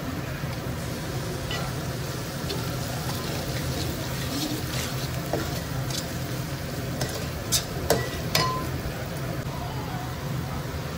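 Onions, curry leaves and turmeric frying in oil in a metal kadai, sizzling steadily as a metal spoon stirs them. A few sharp clinks and scrapes of the spoon against the pan come a little past halfway.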